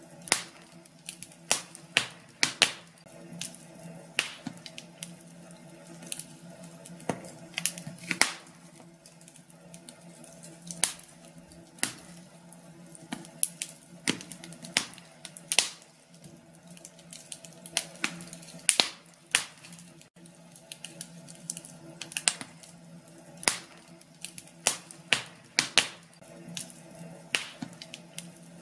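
Wood fire crackling in a fireplace: irregular sharp pops and snaps, several a second, some louder than others, over a faint steady low hum.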